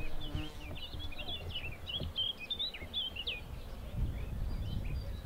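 Songbirds chirping: a quick, busy run of short high calls over the first three seconds or so, thinning out after that. Under them runs a steady low rumble that gets stronger about four seconds in.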